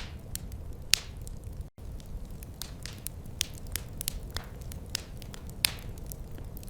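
Wood fire crackling: irregular sharp pops and snaps over a low steady rumble of the flames, the loudest pops about one second and five and a half seconds in. The sound cuts out for an instant a little before two seconds in.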